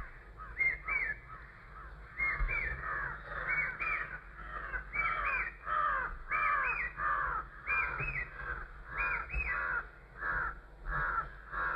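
A crow cawing over and over, short harsh calls in quick runs of two or three, repeating steadily.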